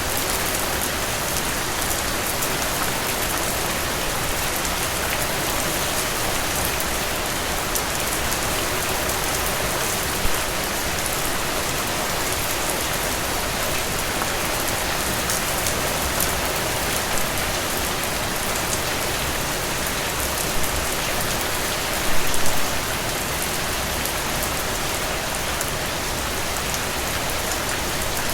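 Steady rain falling, an even hiss with fine drop patter. There is one louder, sharper sound about ten seconds in and a short cluster of them about 22 seconds in.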